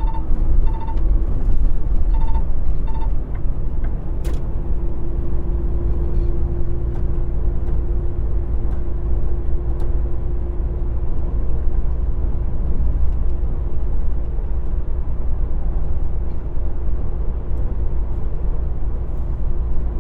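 Semi truck running at highway speed, heard from inside the cab: a steady low engine and road rumble with a steady hum. A few short electronic beeps sound in the first three seconds.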